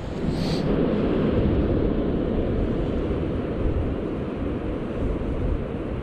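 Strong gusty wind buffeting the microphone, a steady low rushing noise that holds at about the same level throughout.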